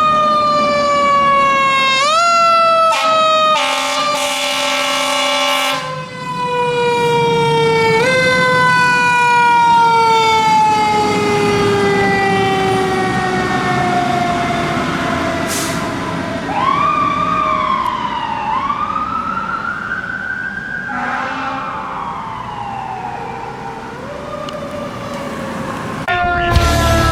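Fire truck siren sounding while the truck responds: a loud tone that slowly falls in pitch and is pushed back up about every six seconds. A horn blast comes in briefly a few seconds in, and a second siren rises and falls in a wail near the middle.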